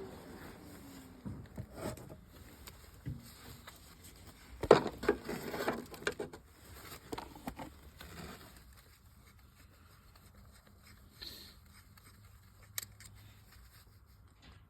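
Scattered knocks, clicks and scrapes of objects being handled, with a cluster of louder knocks about five seconds in, then fainter after about eight seconds.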